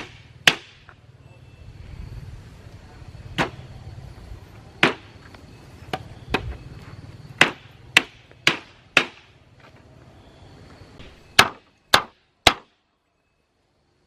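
A hammer striking, about a dozen sharp separate blows at uneven spacing, some in quick runs about half a second apart; the sound cuts off suddenly after the last three quick blows.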